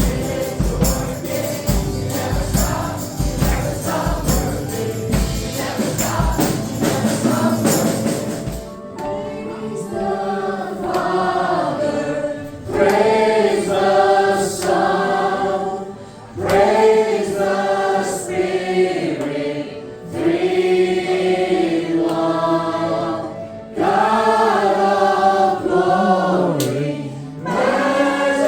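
Gospel worship music with group singing. For about the first eight seconds a band plays with steady percussion, tambourine among it; then the percussion drops out and voices sing long held phrases over softer accompaniment.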